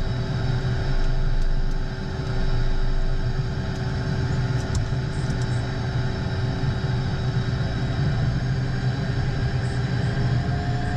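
The twin turbofan engines of a Beechcraft Premier I jet, heard from inside the cockpit at high power during the takeoff run. There is a steady low hum with a constant whine over it, and one tone rises slightly near the end.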